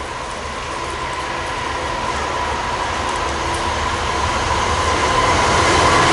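Class 66 diesel locomotive approaching at the head of a container freight train, its sound growing steadily louder, with a steady high-pitched ringing tone running over the rumble.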